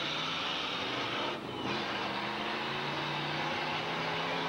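Engines of several demolition derby cars running and revving together in a dense, steady mechanical din, with a few low engine tones shifting in pitch.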